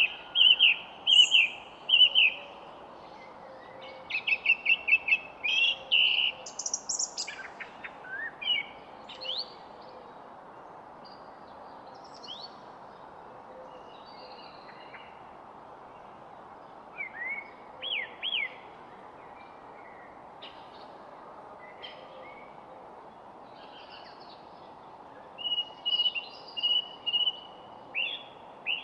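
Wild songbirds singing and calling, several overlapping voices with series of repeated whistled notes and quick trills. The singing thins out to a few scattered chirps about a third of the way in, then picks up again near the end. A steady background hiss of the outdoors runs underneath.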